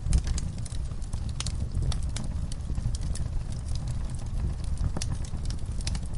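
Logs burning in a fireplace: frequent irregular crackles and pops over a steady low rumble of the flames.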